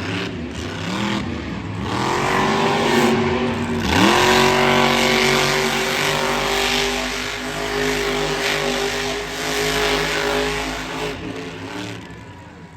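Monster truck engine revving hard. The pitch climbs, drops sharply about four seconds in, then rises again and holds at high revs for several seconds before fading near the end.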